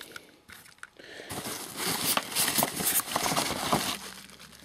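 Packaging being handled during an unboxing: crinkling and rustling that starts about a second in and dies down near the end.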